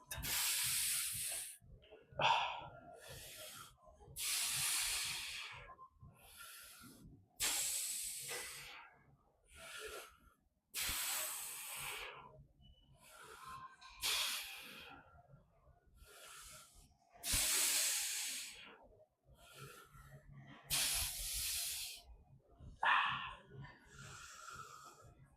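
A man breathing hard, with loud hissing breaths in and out through the mouth coming about every two seconds.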